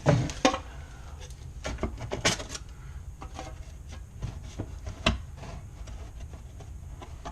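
Irregular scraping and knocking as a vent-cleaning rod with brush is shoved up into a dryer vent duct, with a few louder knocks near the start, around two seconds in and about five seconds in.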